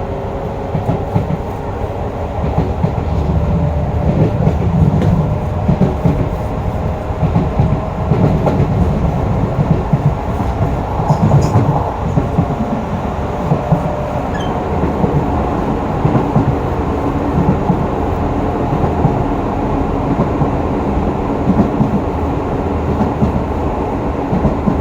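Running sound inside a Hokuso 7300-series GTO-VVVF electric train car: a steady rumble of wheels on rail with clickety-clack over rail joints, and faint steady tones from the traction inverter and motors.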